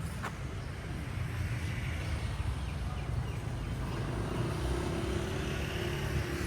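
A motor vehicle running past over a steady low rumble, with an engine hum coming up about four seconds in.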